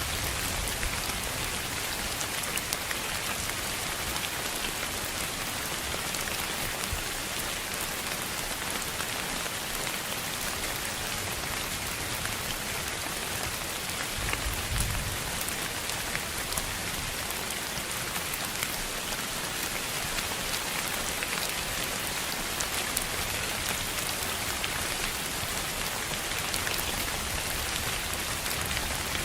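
Steady rain, an even hiss with scattered fine drop ticks, with a brief low rumble about halfway through.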